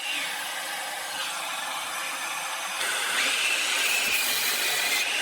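DeWalt 20V MAX 7-1/4-inch cordless sliding miter saw cutting through boards, its motor whine rising and falling. The cut gets louder about three seconds in.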